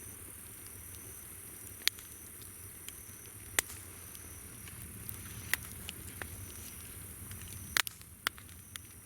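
Wood campfire crackling, with a sharp pop every second or two and a loud double pop near the end. Under it, insects call: a continuous high buzz and a repeating chirp.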